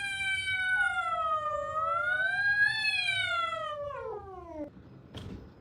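A cat's long drawn-out yowl: one unbroken call of about five seconds that sags in pitch, rises again, then slides down and stops.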